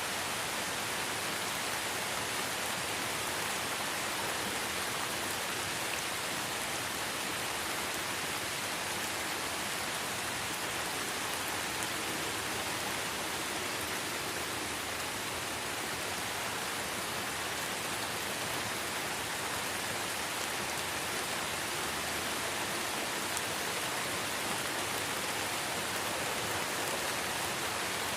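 Light rain falling steadily in a forest: an even hiss of rain, with a few faint individual drop ticks.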